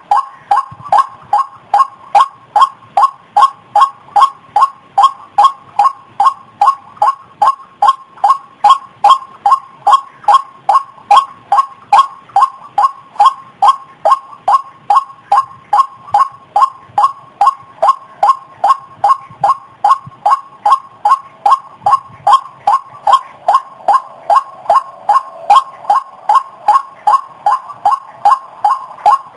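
White-breasted waterhen (ruak-ruak) call played as a bird-trapping lure: a fast, steady series of short repeated notes, about two to three a second, keeping up without a break.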